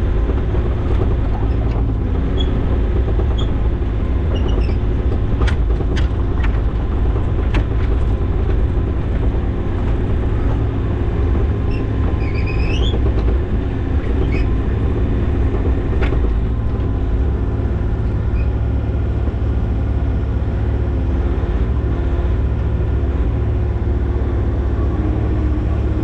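Diesel engine of a compact construction machine running steadily at working speed, with a few sharp metallic knocks and a short squeak partway through.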